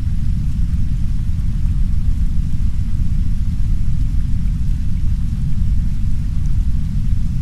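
Heavy brown noise, a steady deep rumble, with soft rain heard faintly above it.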